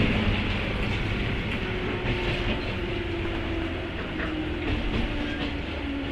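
Running sound inside a 103 series electric train's motor car (MoHa 102) under way: a steady rumble and hum from the MT55 traction motors and running gear, with wheels clicking over rail joints a few times.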